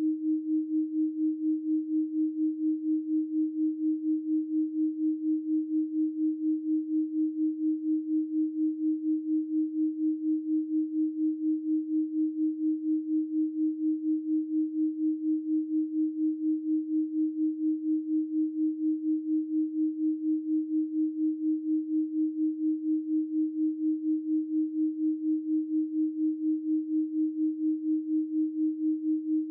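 Synthesized 312 Hz pure sine tone held at one pitch, its loudness pulsing evenly several times a second.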